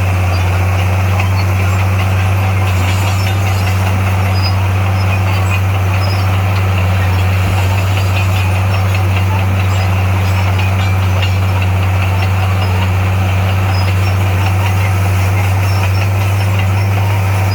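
Heavy diesel engine of earthmoving equipment running steadily at constant speed, a loud low hum with no revving.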